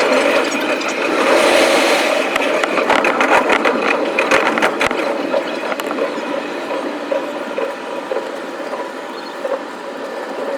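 Electric commuter train running on the rails, sped up, so the wheels clicking over rail joints run together into a rapid ratchet-like clatter over a steady rolling noise. The clatter is densest in the first half and the sound eases down toward the end.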